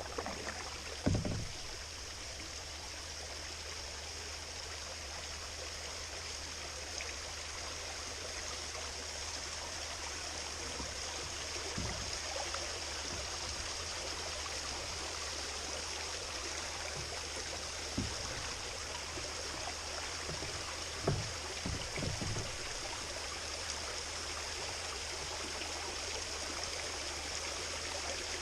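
Steady rush and trickle of water around a kayak on a lake, with a few dull low knocks, the loudest about a second in and a pair about three quarters of the way through.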